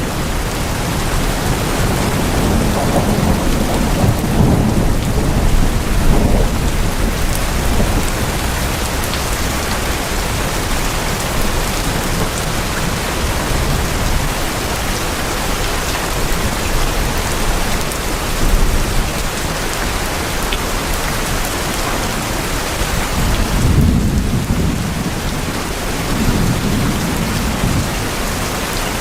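Heavy rain on tin roofs, a dense steady patter. Low rolling thunder rumbles through it a few seconds in and again near the end.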